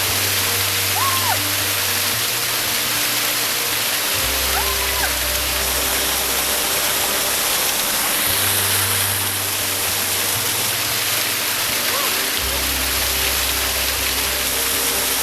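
Rushing water, a steady loud hiss, under background music whose deep bass notes change every few seconds.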